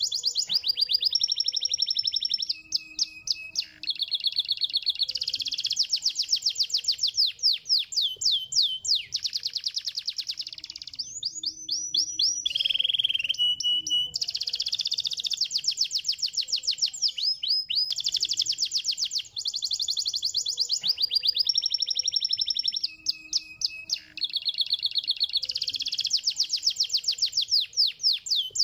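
Domestic canary singing a long, continuous song of rapid high trills and rolls, broken into phrases of a second or two with a few short whistled notes between them.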